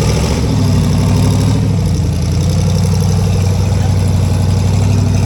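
Off-road rig's engine running steadily at low revs, with a slight change in revs in the first second or two.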